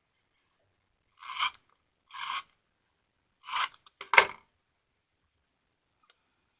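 Adhesive tape runner drawn across the back of small cardstock pieces in three short strokes, each about a third of a second, followed by a sharper click about four seconds in.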